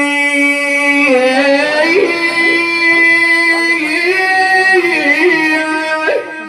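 A man chanting a mournful Shia elegy (hida), holding one long steady note, then about a second in moving into wavering, ornamented notes; the voice drops away near the end.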